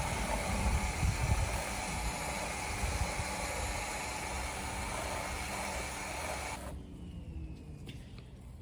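Electric pressure washer spraying cleaning solution through a foam cannon: a steady hiss of spray with a low rumble, cutting off suddenly about seven seconds in.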